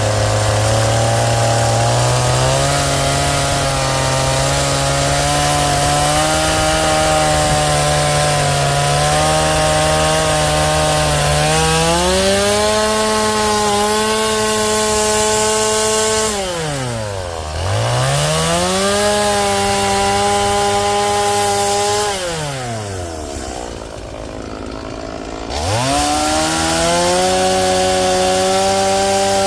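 Chainsaw running at high revs while cutting into a Western red cedar log. The engine pitch climbs over the first dozen seconds. The throttle is let off about 17 seconds in and again around 23 seconds in, the pitch falling sharply toward idle before the saw is revved back up.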